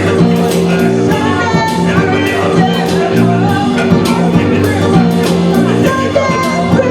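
Live band playing a loud rock song with a steady beat, guitar and a singing voice.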